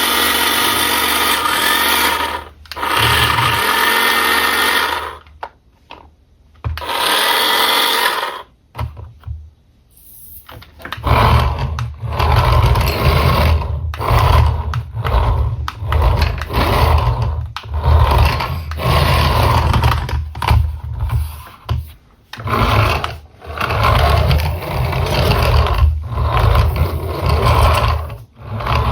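Small electric motor of a remote-control toy car whirring in bursts. A steady whir for about five seconds gives way to a short burst between pauses, and from about eleven seconds on a deeper rumbling run surges and dips about once a second.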